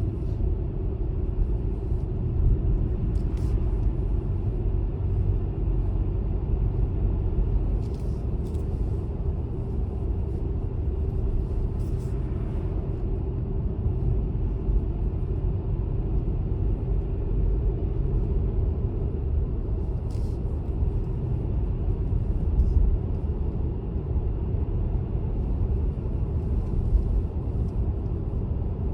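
Car driving, giving a steady low rumble of road and engine noise, with a few faint clicks now and then.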